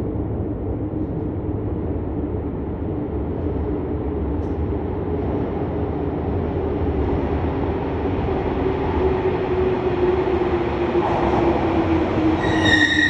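Electric limited-express train running into an underground station platform, its rumble growing, with a motor hum that slowly falls in pitch as it slows. Near the end a high squeal of wheels or brakes sets in as it comes to a stop.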